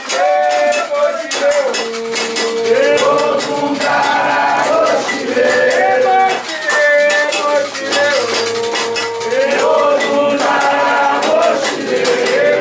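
Voices singing a devotional chant, holding and sliding between notes, over rapid rattle percussion keeping a steady beat.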